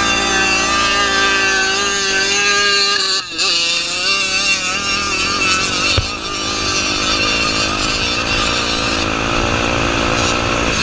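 Honda Tornado 250 single-cylinder four-stroke engine running at varying revs, its pitch rising and falling. About three seconds in there is a brief drop in revs.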